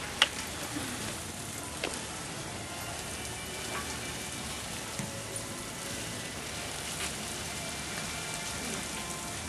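Steady hiss of outdoor background noise with a few faint clicks, the most distinct about a quarter second in and another near two seconds.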